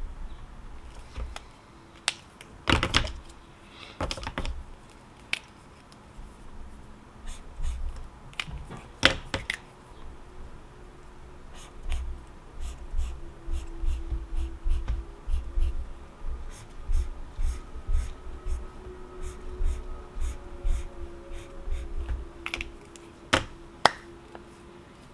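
Light desk clicks and taps: scattered at first with a few louder knocks, then a run of quick clicks through the middle, several a second. A faint steady hum comes in about halfway.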